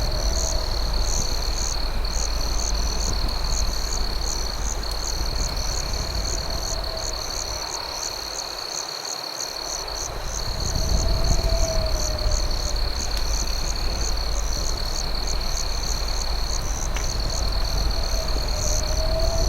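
Night insect chorus of crickets: a steady high trill with rapid pulsed chirps above it. A lower call swells and fades about every six seconds over a low rumble, which dips briefly about halfway through.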